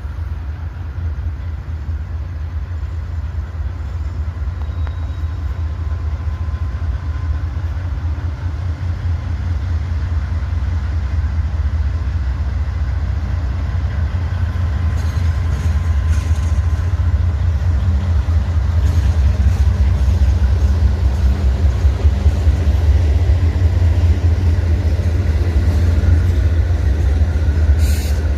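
CSX freight train's diesel locomotives pulling away, a steady low engine rumble that grows gradually louder.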